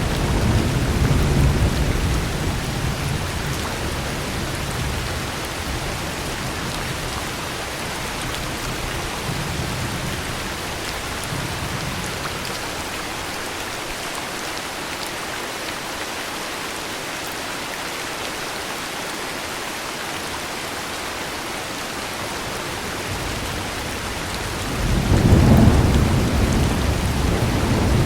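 Steady heavy rain with rolling thunder. A rumble of thunder dies away over the first few seconds, a fainter one comes around ten seconds in, and a louder roll builds near the end.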